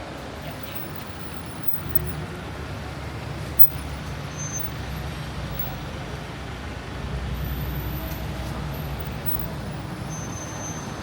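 City road traffic in the rain: vehicles passing on a wet street, a low engine rumble that swells twice, over a steady hiss of rain and tyres.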